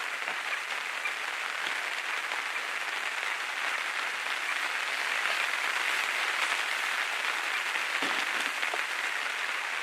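Heavy downpour of rain falling steadily on a hunting ground blind: an even, unbroken hiss.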